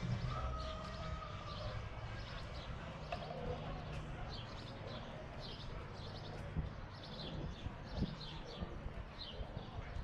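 A small bird chirping over and over, short high chirps about two or three a second, over a faint low rumble.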